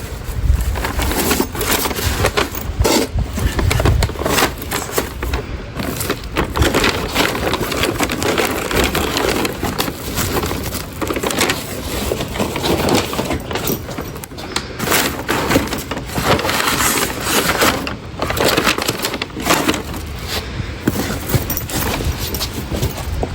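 Plastic grocery bags rustling and crinkling with irregular knocks and thuds as grocery packages are carried and set down.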